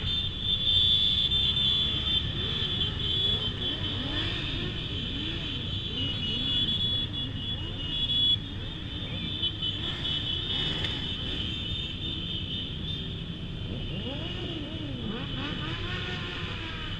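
Motorcycle engines running in a moving convoy, with several engine notes rising and falling in pitch as other bikes rev around, over a steady low rumble and hiss.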